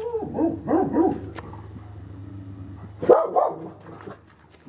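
Great Pyrenees barking: a quick run of short barks in the first second, then another short burst of barks about three seconds in.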